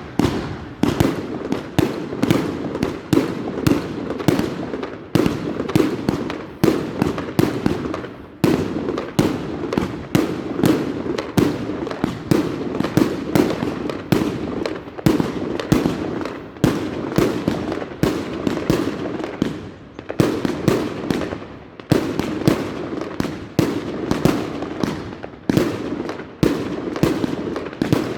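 A dense, continuous barrage of firework explosions, a few sharp bangs a second with echoing tails, and brief lulls about a third and two thirds of the way through.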